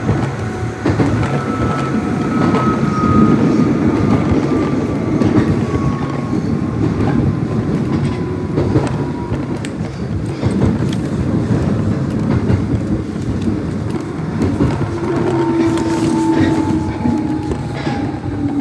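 Nishitetsu 600-series electric train running, heard from on board: a steady rumble of wheels on track with occasional rail-joint clicks. A faint whine glides slowly down in pitch twice.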